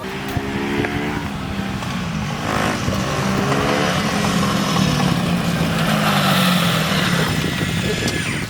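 Dirt bike engines running, the pitch rising and falling as they rev, loudest about six to seven seconds in.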